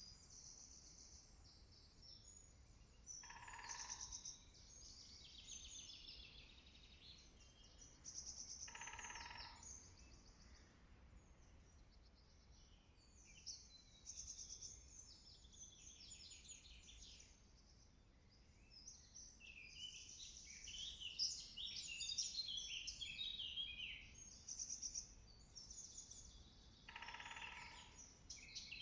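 Spring woodland birdsong chorus, busiest about two-thirds of the way in, with a woodpecker drumming three times in short bursts of under a second each.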